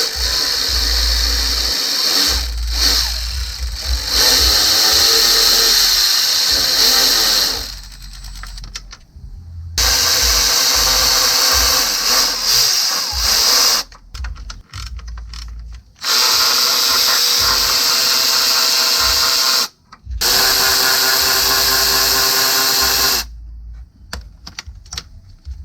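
Cordless power tool with a 13 mm socket run in about five bursts of a few seconds each, with short pauses between them, backing out the upper intake manifold bolts.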